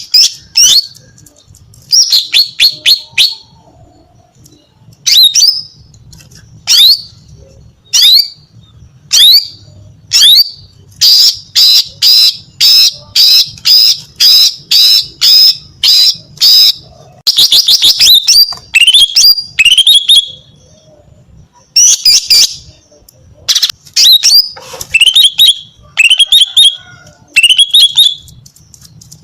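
Female green leafbird (cucak ijo) calling loudly: sharp, high, down-slurred notes in quick clusters, with a fast run of repeated notes from about 11 to 17 seconds in.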